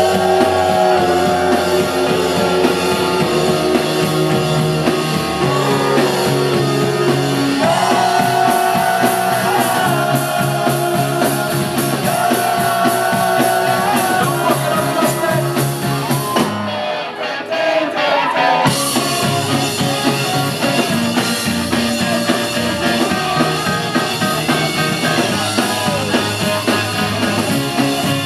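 Live rock band playing a stretch of the song with no sung lyrics: drums, bass and guitars under a melody line. About seventeen seconds in, the drums and bass drop out for a moment, then the full band comes back in.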